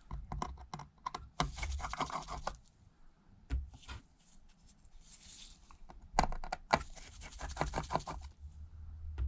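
Precision screwdriver backing small screws out of a metal plate inside an iPad: bursts of fine clicking and scraping in two main spells, about one and a half seconds in and again about six seconds in.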